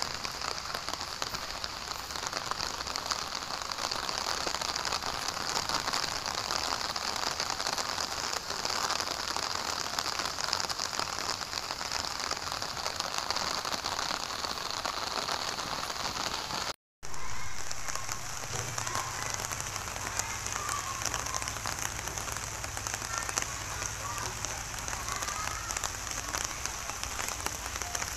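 Steady rain falling on the lane and the roofs around it. The sound drops out for a moment about two-thirds of the way through, then the rain goes on.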